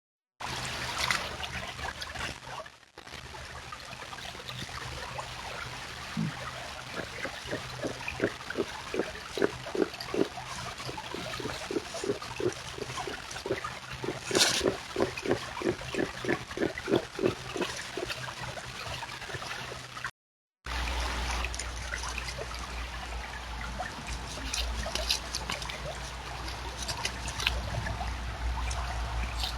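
Beaver making soft, gentle grunts: a long run of short low pulses, about two a second, over trickling water. Partway through the sound cuts, and water trickling over a low steady hum takes over.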